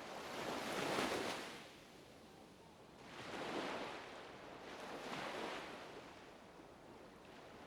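Ocean surf: waves washing in as three swells of rushing noise, the first the loudest, fading to a low steady wash.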